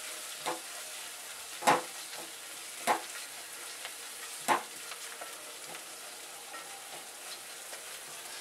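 Onion, garlic-ginger-coconut paste and green chilli sizzling steadily as they fry in vanaspati in an aluminium pot, stirred with a wooden spatula. The spatula strikes the pot four times in the first half, about once every second or so.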